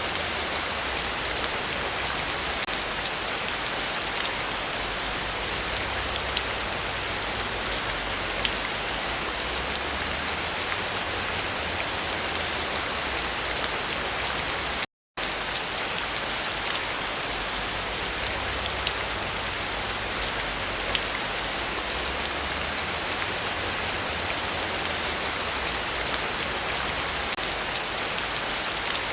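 Heavy rain falling steadily, a dense hiss with individual drops ticking through it; no thunder.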